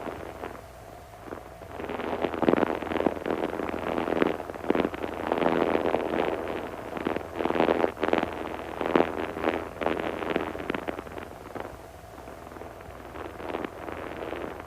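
Cessna 140's engine running at takeoff power in the climb just after liftoff, a steady low drone heard in the cabin. Irregular rushes of wind and buffeting noise come and go over it and are the loudest part.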